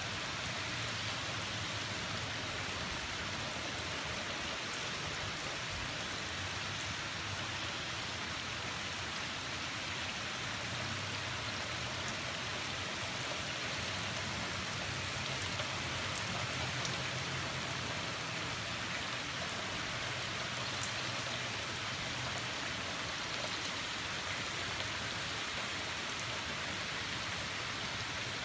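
Heavy rain falling steadily: a dense, even hiss with a few sharp ticks of drops.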